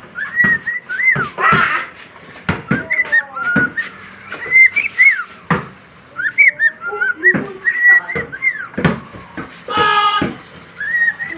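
Cockatiel singing: a quick string of short, arched whistled notes, with sharp clicks between them and one harsher, buzzier note about ten seconds in.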